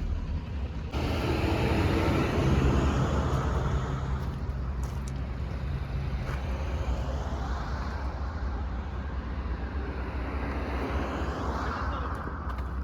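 Heavy diesel engine running, with its pitch rising and falling in the second half.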